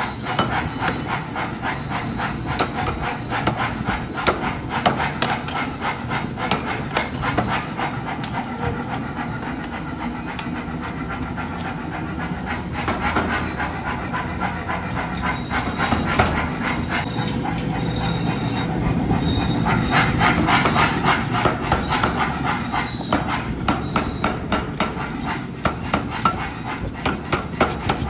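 Hammer strikes and scraping on hot steel being forged, in a quick, uneven run of knocks, ending in a more regular beat of about two strikes a second.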